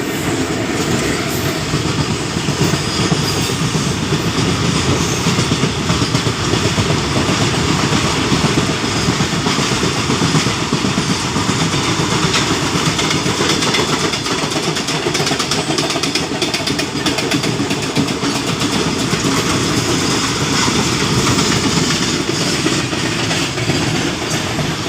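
Indian passenger train coach running on the rails at speed: a steady, loud rumble and rattle of wheels and carriage.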